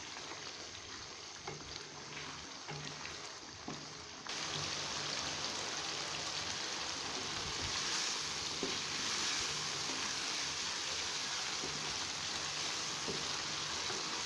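Chicken karahi sizzling in a nonstick wok on full flame while a wooden spoon stirs it, with a few light knocks of the spoon: the high-heat frying-down (bhunai) stage of the curry. The sizzle becomes suddenly louder about four seconds in.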